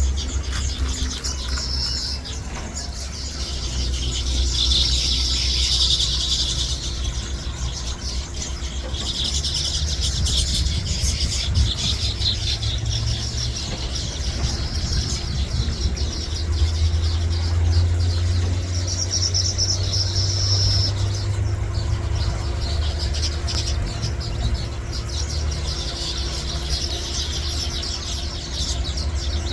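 Birds chirping and chattering in spells throughout, over a steady low rumble and a faint hum.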